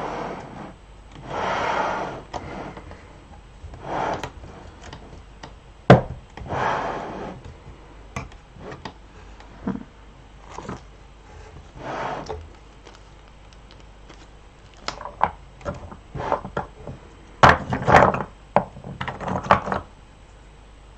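Hands sorting sewing supplies in a sewing box: rustles, scrapes and light knocks of small items being picked up and set down, irregular and unhurried. There is a sharp knock about six seconds in and a busier run of clatter near the end.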